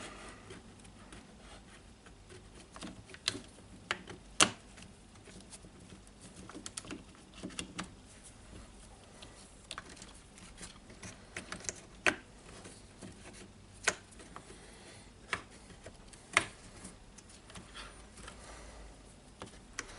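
Scattered clicks and light taps of wires and parts being handled and pressed into a cordless circular saw's plastic housing during reassembly, the loudest click about four seconds in.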